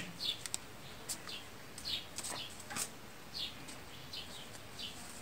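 Small birds chirping faintly in the background: short, high chirps repeating irregularly every half second or so. There are also a couple of light clicks.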